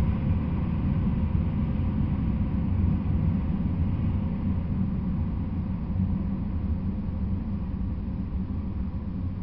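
Low, steady rumble of a freight train out of view, slowly fading as it moves away.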